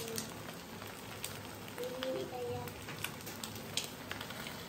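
Beaten egg frying in hot oil in a frying pan: a steady sizzle with scattered sharp crackles.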